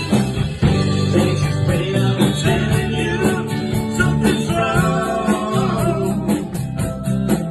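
A band playing a song with guitar and a steady drum beat, with some singing.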